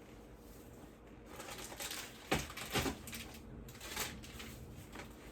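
Plastic packaging handled and rustled, with a few short sharp clicks about two, three and four seconds in.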